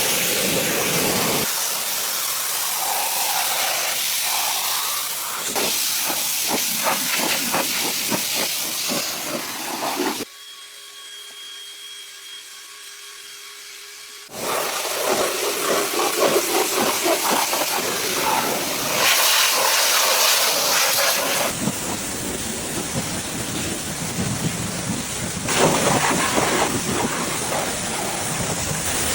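Steam cleaner hissing in long blasts, broken up by stretches of rapid scratchy strokes. About ten seconds in there is a quieter stretch of a few seconds with a faint steady hum.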